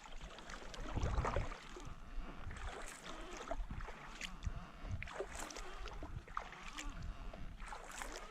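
Kayak moving on calm water: paddle splashes and light knocks against the hull come every second or so, over a low rumble.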